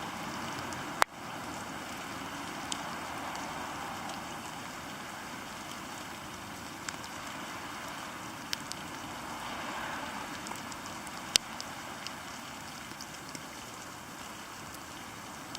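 Rain pattering on a SOL survival poncho, a steady hiss with individual drips landing as sharp taps, two of them much louder, about a second in and again near the end.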